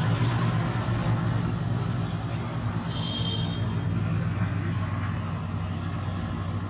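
Steady low engine drone from a passing motor, slowly fading, with a short high double chirp about three seconds in.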